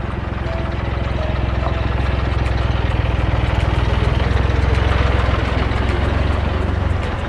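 Tractor engine running steadily with a low idle. It grows louder through the middle and eases off near the end.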